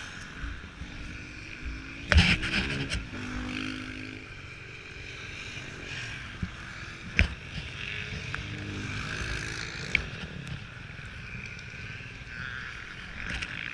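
Motocross bike engines running and revving at a distance, their pitch rising and falling in two spells, with a few sharp knocks.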